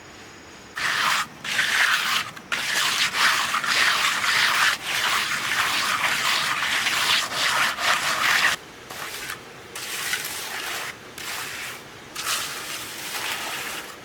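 Rough scraping and rubbing of a hand tool working a cement and sand mix. It starts about a second in, goes on heavily and almost without a break for some seven seconds, then carries on as lighter, separate strokes.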